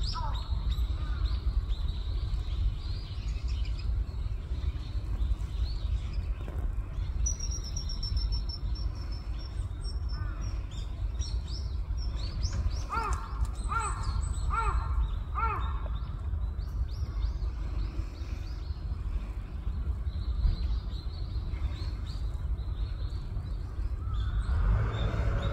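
Wild birds calling and chirping: scattered short chirps, a thin high whistle about seven seconds in, and a quick run of repeated notes around the middle, over a steady low rumble.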